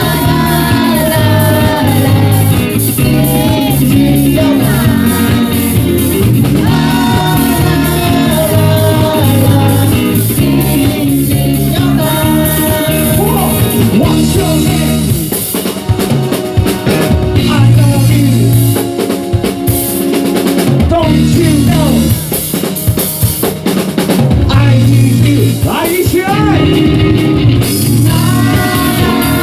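Live rock band playing loud, with a full drum kit, bass and a wavering melody line on top; about halfway through the low end drops away for a few seconds of sharp drum hits before the full band comes back in.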